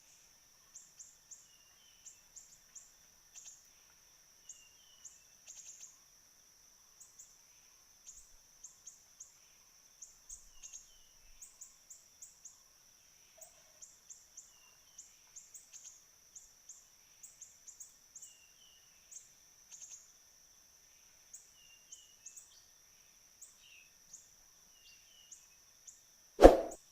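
Siri-siri bird calls: short high chirps repeating every half second to a second, with short falling notes between, over a steady high whine. Near the end a sudden loud knock cuts in.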